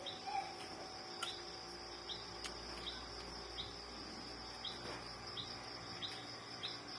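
Insects calling: a steady high-pitched drone with a short chirp repeating roughly every second, and a few faint clicks.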